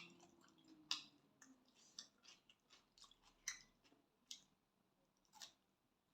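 A person chewing food close to the microphone: faint, with a few sharp clicks of the mouth spread through it.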